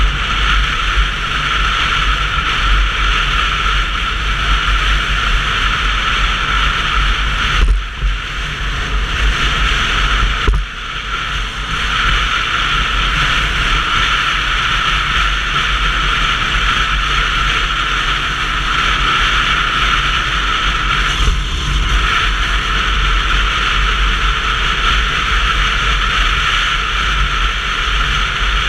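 Wind rushing and buffeting over an action camera's microphone on a Sinnis Terrain 125cc motorcycle under way, mixed with road noise. It is steady, with two brief dips about eight and ten seconds in.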